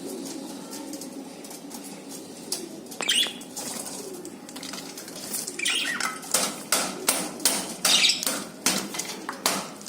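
Pet birds indoors: a few short, falling calls, then from about six seconds in a run of sharp flaps or taps, roughly two a second.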